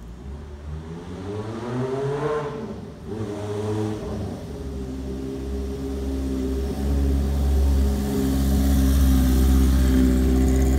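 Honda CB550 inline-four motorcycle engine accelerating: its pitch rises, drops at a gear change about three seconds in, then climbs again. It then runs steadier and grows louder as the bike rides up close and passes.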